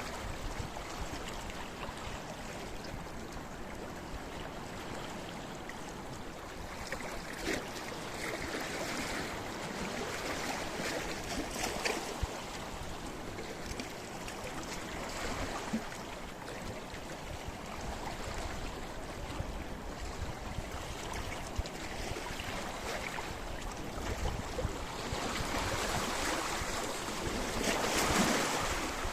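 Sea waves washing over a rocky shore, a continuous churning wash with short splashes and trickles among the stones; a larger wave swells in near the end.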